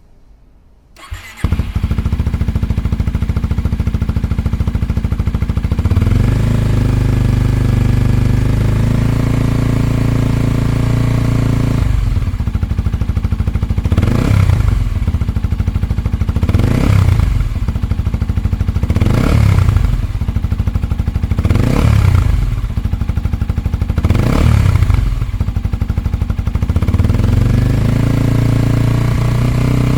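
Kawasaki Ninja 250SL's single-cylinder engine, breathing through a Yoshimura R-77S Cyclone slip-on muffler, started about a second in and idling. Five quick throttle blips follow, each rising and falling in pitch, and the engine then settles back to idle.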